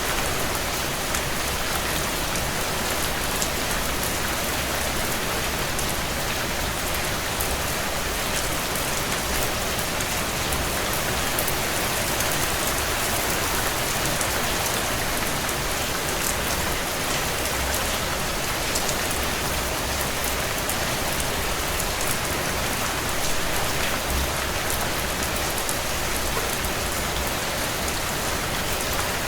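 Heavy rain drumming on a tin roof: a steady, dense hiss of rain with countless individual drop ticks.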